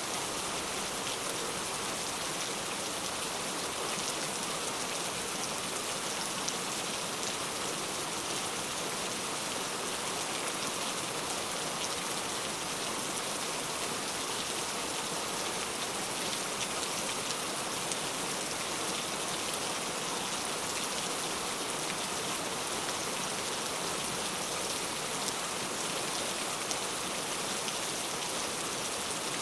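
Steady rain falling and pattering on a surface, an even hiss of drops without thunder or letup.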